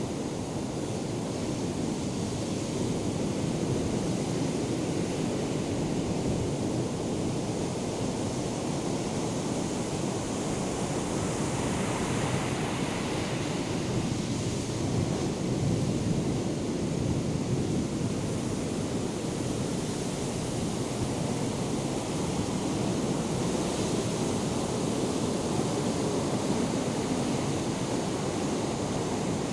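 Ocean surf from hurricane swell breaking and washing ashore in a continuous rumble that swells a little now and then, with some wind on the microphone.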